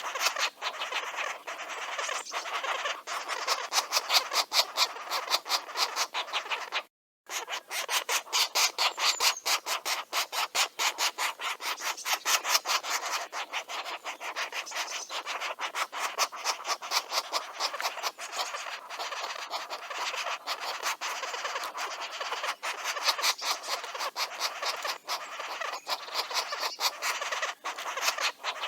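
Green woodpecker nestlings begging: a continuous rasping made of rapid, irregular pulses, which cuts out briefly about seven seconds in.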